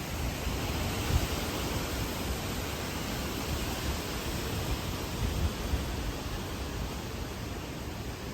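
Hurricane wind and rain: a steady rushing hiss, with gusts buffeting the microphone in low thumps about a second in and again around five seconds in.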